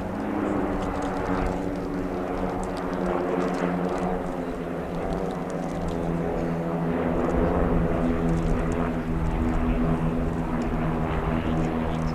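An aircraft engine running steadily: a continuous droning hum with even, unchanging pitch and slow swells in loudness.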